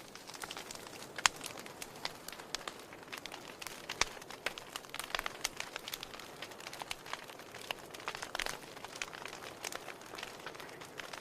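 Wood fire crackling, with irregular pops and snaps over a soft hiss; the sharpest pops come about a second in and at four seconds.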